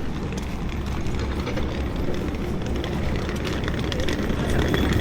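Steady low rumbling outdoor noise with many faint clicks and crackles throughout.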